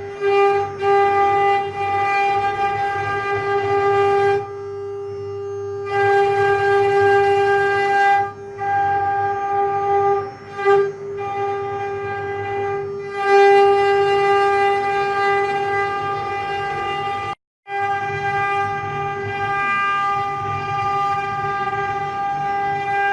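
Mini CNC router's spindle running at a steady high pitch, a constant whine with a rough cutting noise beneath it, dipping briefly a few times and cutting out for a moment near the end.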